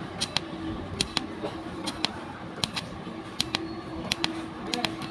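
Sharp clicks or taps, mostly in close pairs about once a second, over a faint steady hum.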